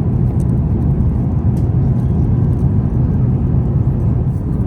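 Airliner cabin noise in flight aboard an Airbus A350-900: a steady low rumble of airflow and engines, with a few faint clicks.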